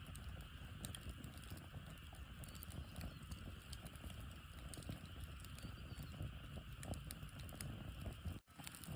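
Wood fire burning, with irregular crackles and pops over a low rumble; the sound cuts out for a moment near the end.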